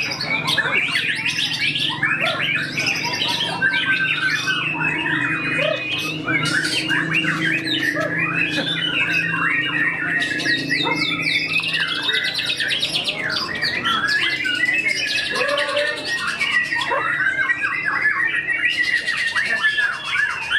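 White-rumped shama (murai batu) singing without a break: a rapid, varied stream of whistles, sliding notes and fast trills, packed with mimicked songs of other birds.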